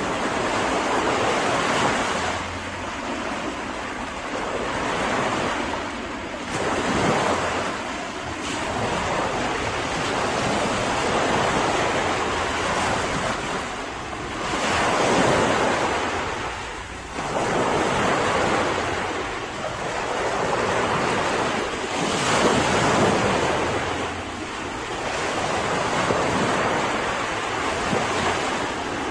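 Sea waves breaking and washing onto a beach, a steady rush of surf that swells and ebbs every three to four seconds.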